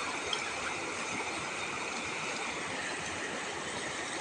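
Swollen floodwater of a river after heavy rain, flowing fast with a steady, even rushing noise.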